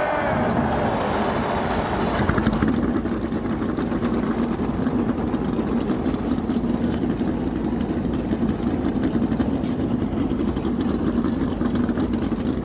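A field of NASCAR Cup stock cars' V8 engines fired up and idling together, a dense steady rumble. It turns rougher and crackly about two seconds in as more engines catch.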